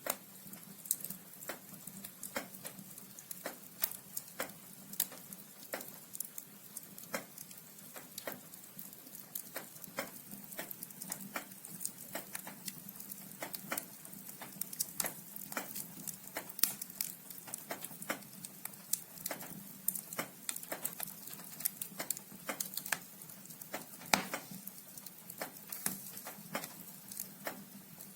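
Firewood burning in a fireplace: the logs crackle with irregular sharp pops, several a second, over a faint steady low hum.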